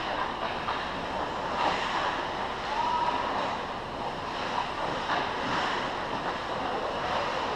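Ice hockey game ambience: a steady wash of rink and crowd noise, with a few sharp knocks from sticks or the puck.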